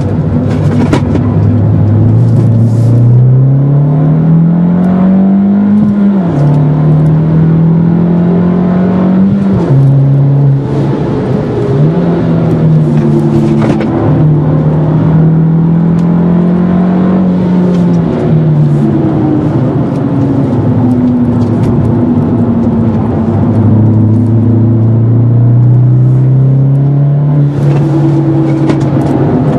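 Fiat Grande Punto Abarth's 1.4 turbocharged four-cylinder heard from inside the cabin at full track pace. The revs climb steadily and drop sharply on a gear change about six seconds in, then rise and fall repeatedly through the corners, easing off for a while past the middle and building again near the end.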